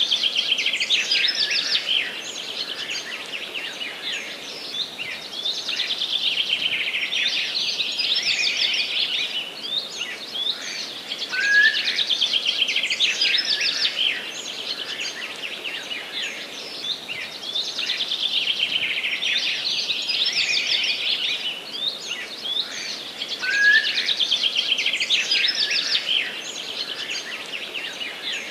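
Forest songbirds singing in a dense, continuous chorus of rapid high trills and chirps, with a short rising note about every twelve seconds.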